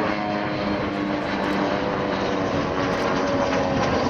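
Steady, loud drone of light propeller aircraft passing overhead: the piston engines and propellers of two Van's RV-8 escort planes, described as ridiculously loud.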